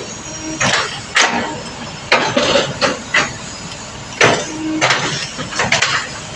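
A series of sharp knocks and clanks, about eight irregular strikes, over a low steady rumble.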